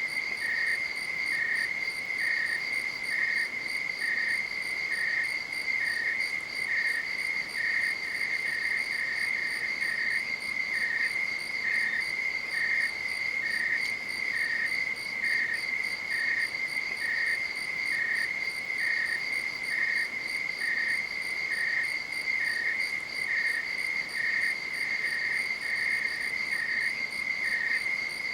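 Night-time crickets singing: one gives an unbroken high trill, while another, slightly lower, chirps about one to two times a second with uneven spacing.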